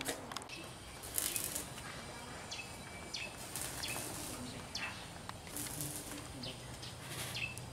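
Short bird chirps, each sliding downward in pitch, repeating about once a second, over rustling and a few light knocks.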